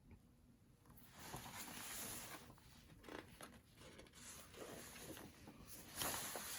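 Faint rustling of paper as a picture-book page is handled and turned.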